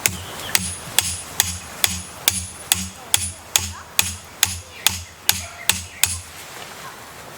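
Steady hammer blows on metal, a little over two a second, each a dull thud with a short high metallic ring, in a run of about fifteen strikes that stops about six seconds in.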